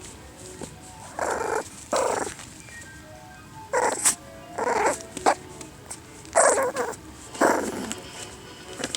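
Five-week-old puppies giving short yips and little growls, about eight in all at irregular intervals, while they play and chew.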